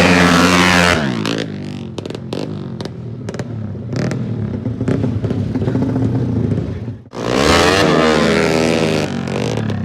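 Racing motorcycle engines at high revs, loud for the first second, then fading to a quieter stretch with scattered clicks and clatter. About seven seconds in, another engine comes in loud, its pitch rising and then falling.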